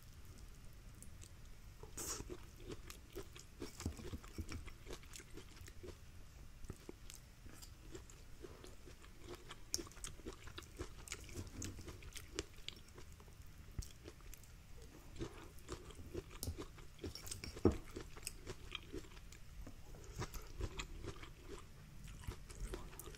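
Close-miked chewing and biting: a person eating sweet corn kernels, with wet mouth sounds and many small sharp clicks scattered throughout, some of them from chopsticks picking at the bowl of corn.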